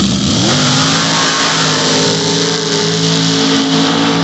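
A modified Jeep Wrangler's engine is revved hard as it launches off the line on a dirt drag strip. Its pitch climbs quickly in the first half second, then holds high and steady at full throttle.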